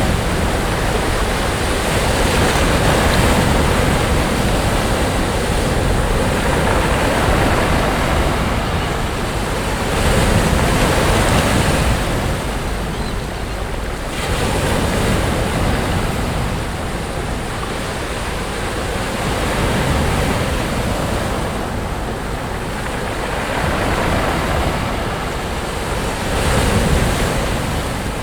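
Sea waves breaking and washing up a sandy beach, swelling and easing every few seconds, with wind buffeting the microphone.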